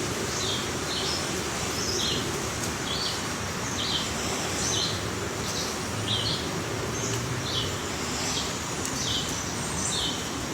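A bird calling with short, high chirps, repeated roughly every two-thirds of a second over a steady background hiss.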